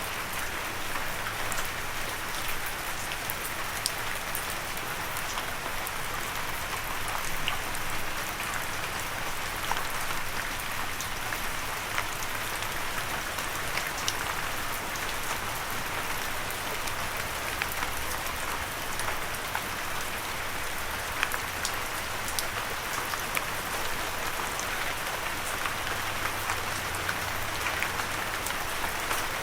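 Steady light rain falling on a surface, a continuous patter with many individual drop ticks and no thunder.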